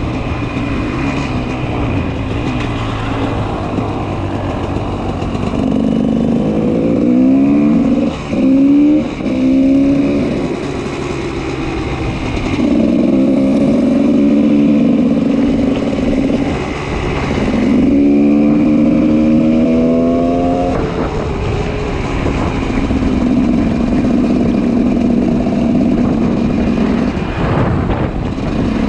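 2004 GasGas EC 300 single-cylinder two-stroke with an FMF Powercore 2 exhaust, running and accelerating three times, its pitch rising each time, with two short cuts in the first run, between stretches of steadier, lower running.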